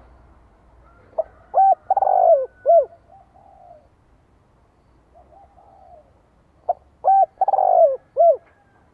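Spotted dove singing its cooing song: two phrases about five seconds apart, each a couple of short notes, a longer falling coo and a clipped final note, with softer coos between them. This is the call of a decoy male, used to provoke wild male doves and draw them in to fight.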